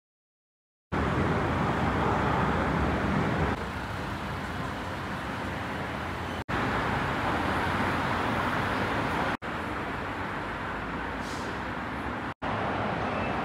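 Road traffic noise: a steady rumble of passing vehicles. It starts after a second of silence and changes abruptly several times, as short clips are cut together.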